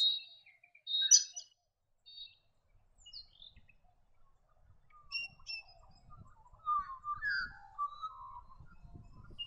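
Wild birds calling: short high chirps in the first couple of seconds, then a run of lower whistled calls that glide in pitch, about seven to eight seconds in. A faint low rumble runs under the second half.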